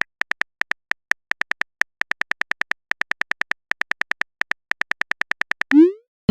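Chat-app typing sound effect: short, identical high beeps in quick runs of about eight a second, with small gaps between runs, as a message is typed out. Near the end a short rising swoop, the sound of the message being sent.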